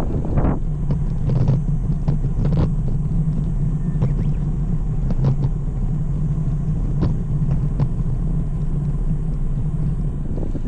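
Steady low rumble of wind on the microphone and tyre noise from a road bike in motion, with scattered sharp clicks and ticks, about one a second.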